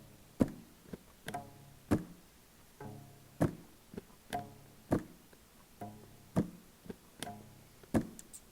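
Instrumental break played on homemade instruments made from household items: sharp percussive taps about twice a second with short plucked notes between them.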